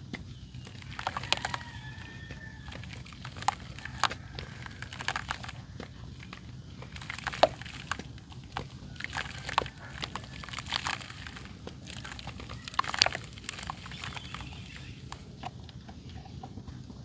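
Dry red dirt clay crunching and crumbling in irregular crisp snaps and crackles, a few of them sharper and louder than the rest.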